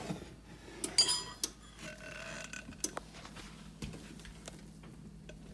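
A spatula or spoon clinking and knocking against a bowl and pie dish a few separate times, as meringue is scooped onto the pie.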